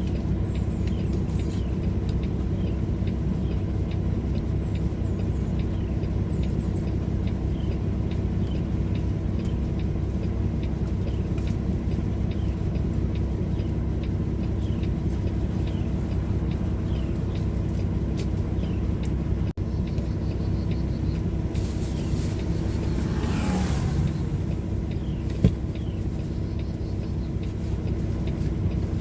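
Tractor-trailer's diesel engine running steadily with a low, even drone. Around three-quarters of the way through a brief rush of noise passes, followed by a single sharp click.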